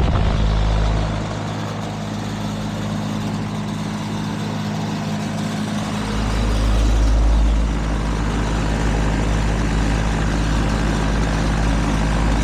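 Central air-conditioner condensing unit running: steady compressor hum with the whoosh of the condenser fan.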